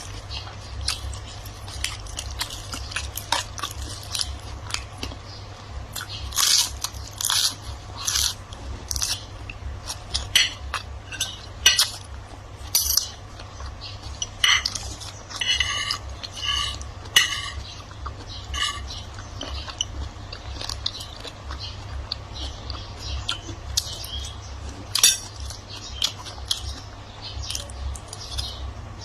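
Close-miked eating: chewing and crunching of food in the mouth, with frequent spoon-on-dish clinks, over a steady low hum.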